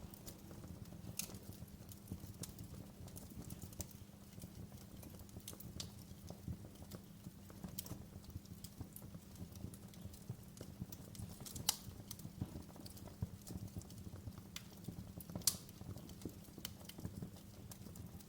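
Wood fire crackling in a fireplace: irregular pops and snaps over a low, steady rumble. Two pops stand out as louder, one about two-thirds of the way in and another near the end.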